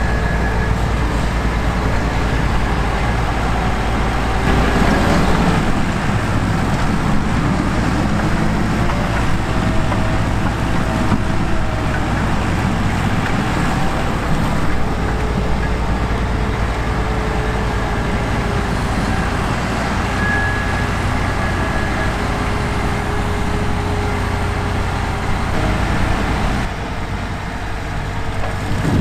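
Heavy diesel farm machinery running steadily, with a few faint steady whining tones over the engine rumble. The sound changes abruptly near the end.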